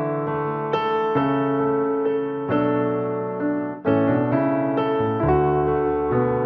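Background piano music: held notes and chords, with a new one struck every second or so.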